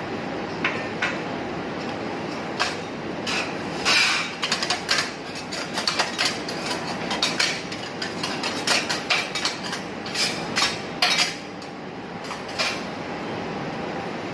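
Metal teppanyaki spatulas clacking and scraping against the steel griddle, a rapid run of sharp clinks from about four seconds in until near the end, over a steady hiss.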